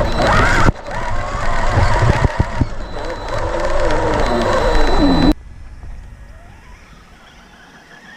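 A Traxxas RC truck's electric motor and drivetrain whining, the pitch rising and falling with the throttle, over the rush of tyres on the ground. The sound cuts off abruptly about five seconds in, leaving only faint noise.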